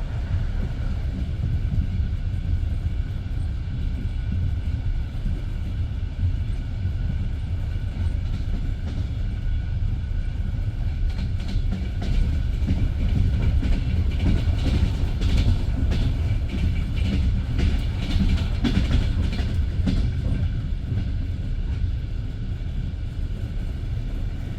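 Passenger train coach running at speed, heard from inside the carriage: a steady low rumble of wheels on rail, with a stretch of quick clicking and knocking of wheels over rail joints about halfway through.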